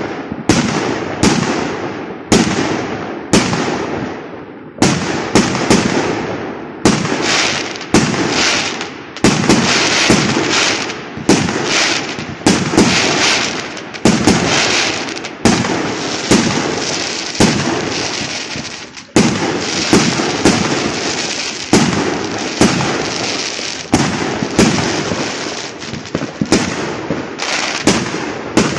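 Aerial fireworks bursting in quick succession: a string of sharp bangs about one or two a second, each trailing off in an echo, with a stretch of dense crackling about ten seconds in.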